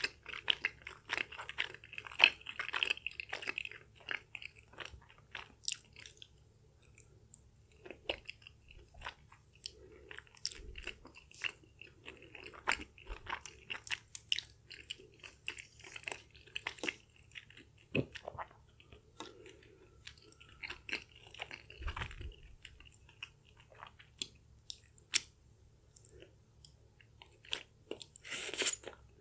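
Close-miked chewing of chewy, sticky Korean spicy rice cakes (tteokbokki): wet, sticky mouth smacks and clicks, irregular throughout.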